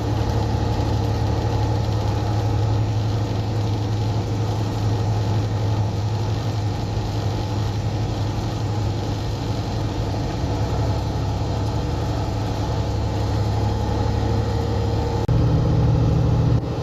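Semi truck's diesel engine running steadily, heard from inside the cab as a low drone. Near the end it briefly rises in pitch and gets louder, then drops back.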